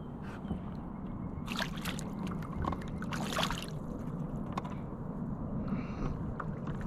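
Water sloshing and splashing at the side of a kayak, with a few small knocks, as a hooked largemouth bass is played in and landed. There is a louder, splashy stretch between about one and a half and three and a half seconds in.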